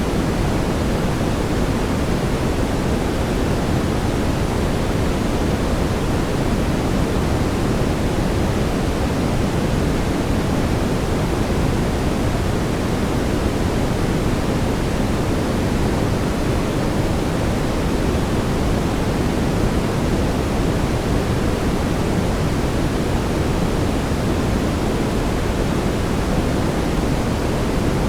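Brown noise: a steady, even rumbling hiss with most of its weight in the low end, unchanging throughout.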